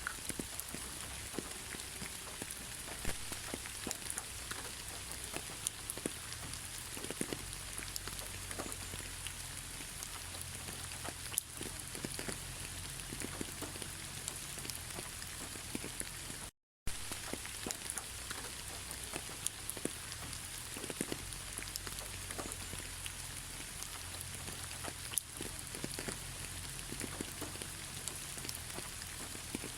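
Steady rain falling, with many separate drops clicking over an even hiss. The sound cuts out completely for a split second about two-thirds of the way through.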